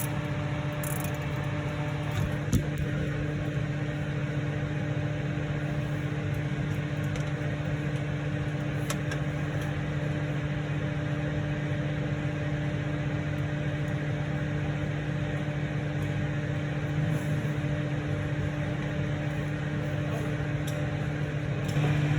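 Steady machine hum with a constant low drone, unchanged throughout, and a single faint click about two and a half seconds in.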